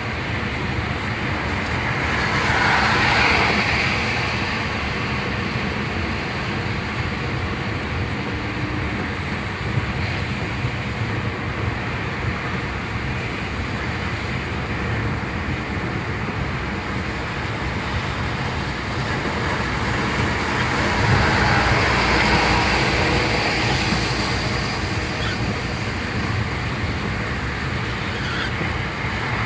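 Car driving along a road: steady engine and tyre noise that swells twice, about three seconds in and again around twenty-one to twenty-five seconds in.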